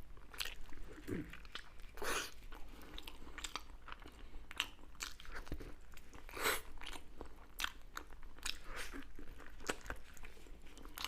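Close-miked eating of crunchy food: irregular crunchy bites and chewing, several sharp crunches a second at times.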